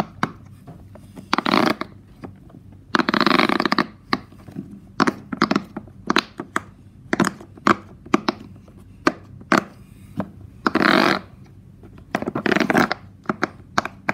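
Bubbles of a large silicone pop-it fidget toy being pressed through by fingers: scattered single pops, and four longer bursts of crackling pops as whole rows, two at a time, are pushed through.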